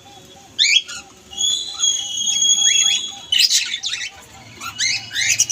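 Pet parrot calling: quick upward-sweeping chirps, a held whistle, then a loud harsh squawk about three and a half seconds in, followed by more rising chirps near the end.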